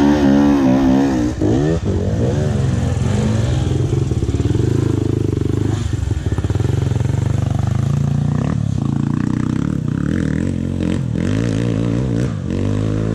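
Off-road dirt bike engine running, revved up and down repeatedly so its pitch keeps rising and falling, with steadier running in the middle.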